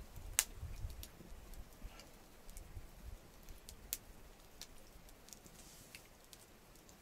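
Small campfire crackling with scattered, irregular sharp pops and ticks, two louder pops about half a second in and about four seconds in.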